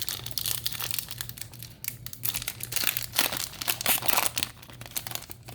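Foil Yu-Gi-Oh! booster pack wrapper crinkling in a dense, irregular run of crackles as the pack is handled and opened.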